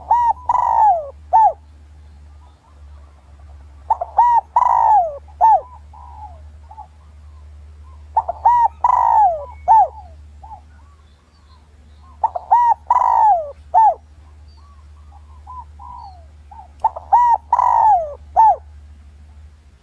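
Spotted dove cooing: five loud phrases of a few hooting notes each, about every four and a half seconds, with softer short coos between them. It is a decoy coo of the kind used to lure wild males in to fight.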